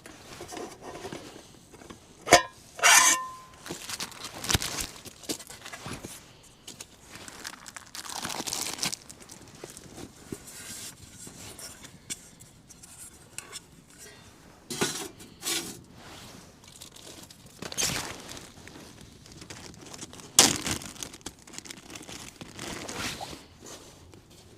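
Camp cookware being handled: irregular clinks and knocks of metal pans and utensils, with bursts of crinkling and rustling like packaging being opened, as a meal is set up. The loudest knocks come a little over two seconds in and about twenty seconds in.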